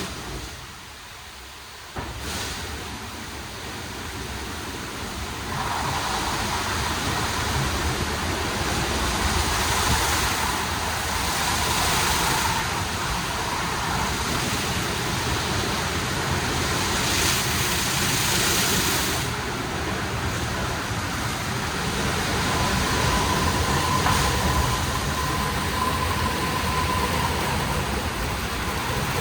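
WashTec SoftCare² Takt rollover car wash running: steady rushing spray and machinery noise. It starts abruptly about two seconds in, after a brief quieter spell, and a faint steady whine runs through later, with spells of sharper hissing.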